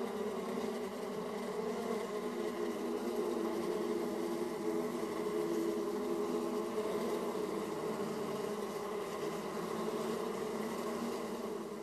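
Honeybees buzzing in numbers at a hive entrance: a steady, full hum of many overlapping wingbeat tones that waver as bees fly in and out.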